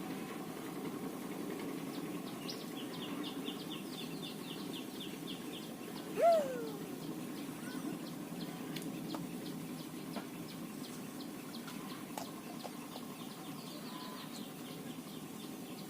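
Birds calling outdoors: rapid trills of high ticks come twice, over a steady low background rumble. About six seconds in, a short, loud cry falls sharply in pitch and stands out above everything else.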